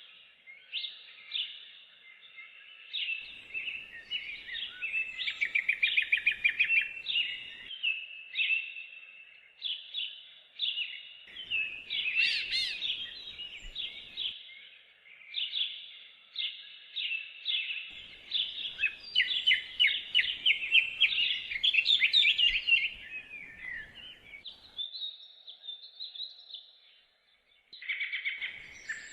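Songbirds singing in quick, trilling chirp phrases almost without a break, with a short lull near the end.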